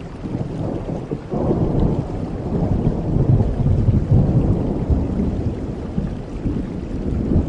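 Thunder rumbling low and long over steady rain, swelling sharply about a second in.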